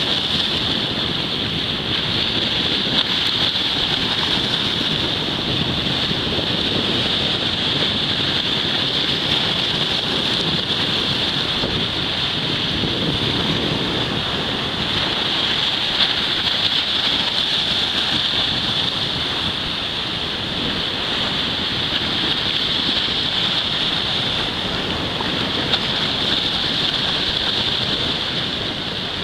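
Steady noise of sea waves and surf, with wind on the microphone and a constant high hiss.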